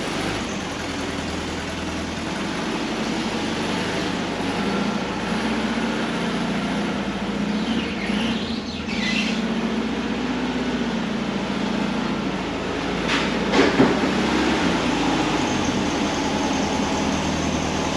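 A car's engine running steadily at low speed as the car is driven into the garage. A couple of short knocks come about three-quarters of the way through.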